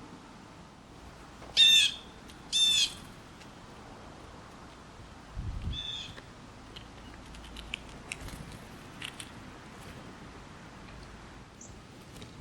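Birds calling: two loud calls about a second apart, then a fainter call and a few short chips.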